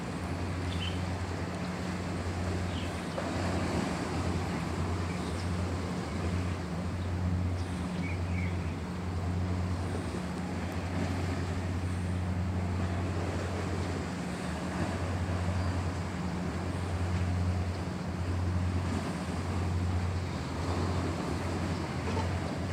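Boat engine running at a steady low hum, with water rushing and wind on the microphone.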